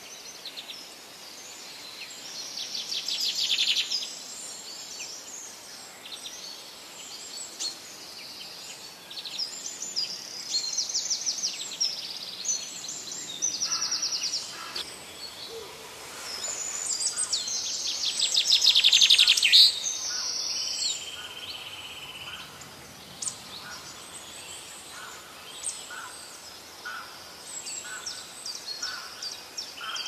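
Songbirds singing: bursts of rapid trills, loudest about three and eighteen seconds in, and a scatter of short chirps, over a steady background hiss.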